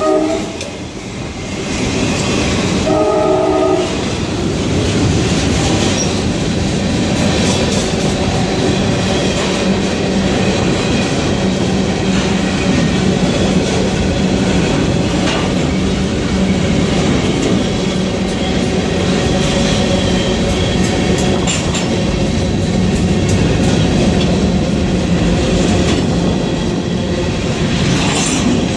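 New York & Atlantic Railway freight train passing at close range. The locomotive horn sounds briefly at the start and again for about a second near three seconds in. After that comes the steady noise of freight cars rolling slowly by, with wheels clicking over the rail joints.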